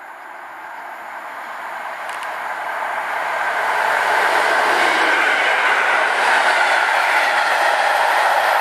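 EN57FPS electric multiple unit approaching and passing on the main line. Its wheels rolling on the rails grow steadily louder over the first four seconds, then hold at full volume.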